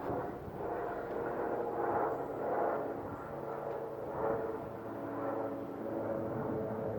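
Pennstar 2 medical helicopter flying overhead: a steady engine and rotor drone carrying several steady tones, swelling and fading a few times.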